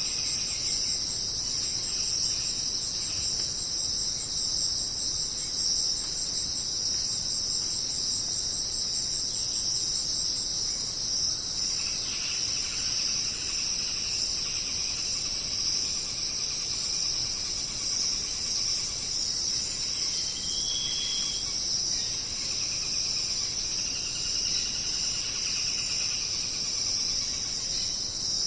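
Dense chorus of jungle insects, a steady high-pitched shrill buzzing that never lets up. Fainter, lower trilling calls come and go beneath it, with one short high note about twenty seconds in.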